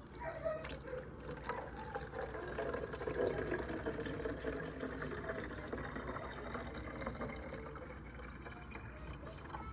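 Freshly brewed coffee being poured into a container, a steady filling pour that is strongest about three seconds in and eases off toward the end.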